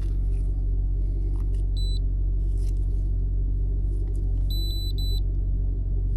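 Volkswagen Jetta's engine idling with a steady low hum. Short high electronic beeps sound once about two seconds in and three times in quick succession near five seconds.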